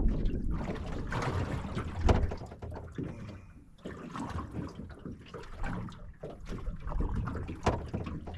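Water sloshing and splashing with irregular knocks and handling clatter, the loudest knocks about two seconds in and again near the end.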